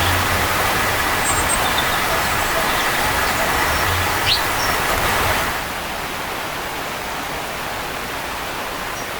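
Steady outdoor rushing noise with a few faint, short high chirps over it; the rushing drops noticeably in level a little past halfway, as at a cut.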